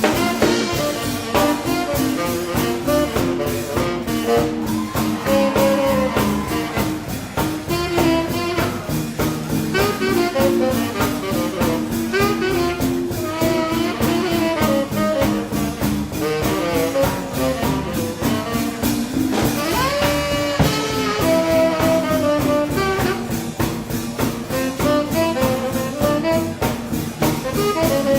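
Live swing band playing an instrumental: saxophone and brass over a drum kit keeping a steady fast beat.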